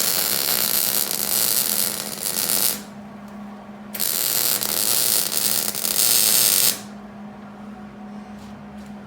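Hobart Handler 190 MIG welder arc crackling as a bead is laid around an exhaust flange, in two runs: the first stops about three seconds in, the second starts a second later and lasts nearly three seconds. A steady low hum continues underneath.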